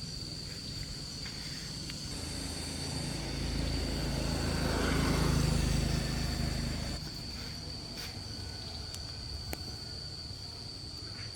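A steady, high insect drone, with a passing vehicle engine that swells about four to six seconds in and fades away by about seven seconds.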